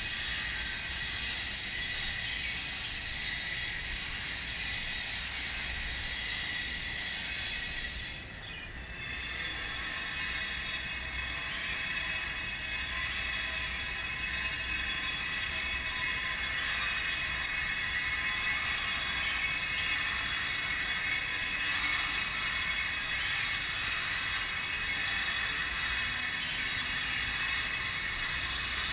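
Power grinder working stone: a steady high whine with gritty hiss. It eases off briefly about eight seconds in, then carries on.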